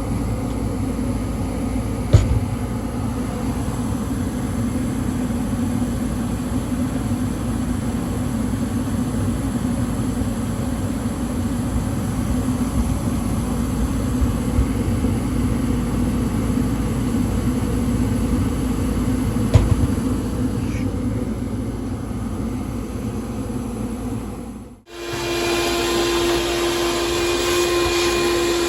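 Newly installed 90% gas furnace running steadily, burners and blower on, during a gas-pressure adjustment, with a sharp click about two seconds in and another near twenty seconds. About 25 seconds in the sound cuts off and a different steady motor whine with a single held tone takes over.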